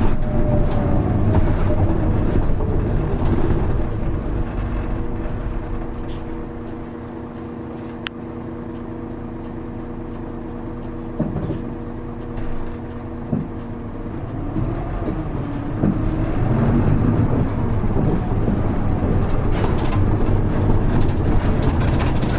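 Hino Rainbow HR (KL-HR1JNEE) route bus heard from inside the cabin. Engine and road noise die down as the bus slows to a stop about five seconds in. It idles with a steady hum for several seconds, with a few light knocks, then the engine picks up again as it pulls away around fifteen seconds in.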